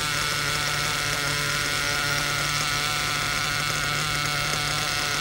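Werks B5 nitro RC engine idling steadily on its first break-in tank, run rich and hot at about 240 degrees.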